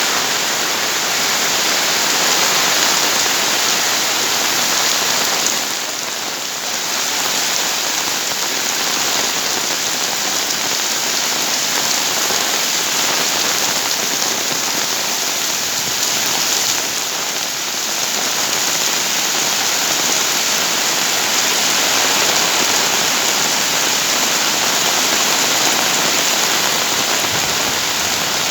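Heavy rain pouring steadily, a dense hiss that eases briefly twice.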